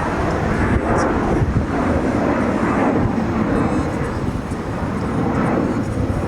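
Jet airliner engines running: a loud, steady rush of noise that holds without a break.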